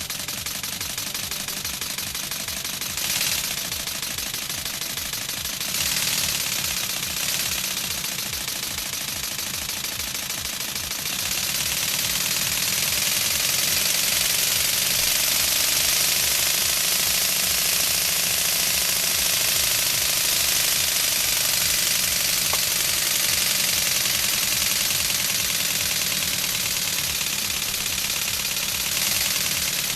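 LEGO pneumatic inline four-cylinder engine running on compressed air: a rapid, continuous clatter of pistons and valves with a hiss of escaping air. About eleven seconds in, the hiss and overall level rise and hold steady.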